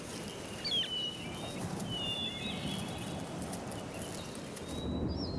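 Small birds chirping and whistling in short, high calls several times over a steady outdoor background hiss.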